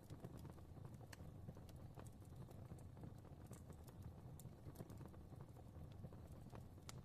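Faint fireplace fire crackling: scattered, irregular small pops and ticks over a low steady rumble of flame.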